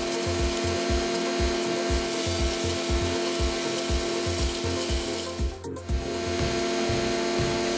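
Wood chipper running and chipping wood: a steady machine drone with an even low pulsing, dropping out briefly about five and a half seconds in.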